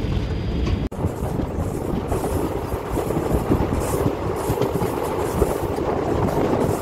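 Passenger train running along the track, its wheels and coaches rattling and clattering steadily, with a brief break about a second in.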